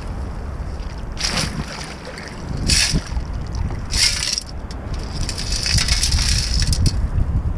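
A perforated stainless steel sand scoop lifted and shaken in sea water: water pouring and splashing out through its holes and stones rattling in the basket, in four bursts, the last the longest. Under it, a steady low rumble of surf and wind on the microphone.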